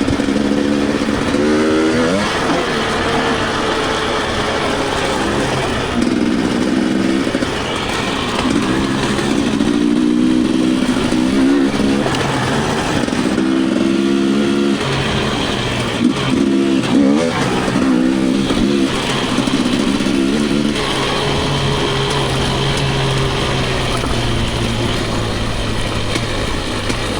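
Dirt bike engine on a trail ride, revving up and backing off again and again through the first two-thirds, then settling into a steadier, lower note near the end.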